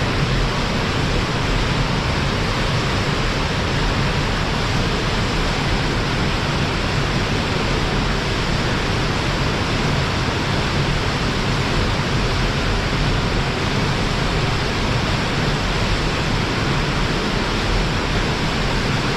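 Waterfall plunging into its pool: a loud, steady rush of falling water with no breaks.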